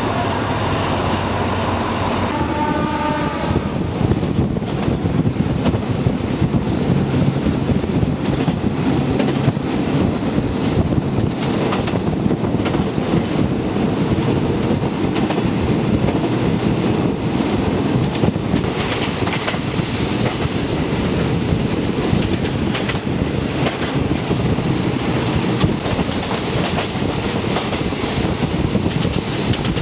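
A passenger train running, with a steady rumble and wheels clicking over the rail joints. A short horn blast sounds about two seconds in.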